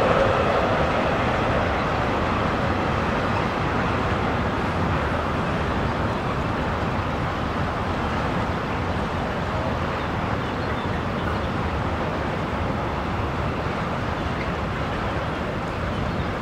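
Long intermodal freight train, its wagons loaded with lorry semi-trailers, rolling past with a steady noise of wheels on rails that eases slowly in level.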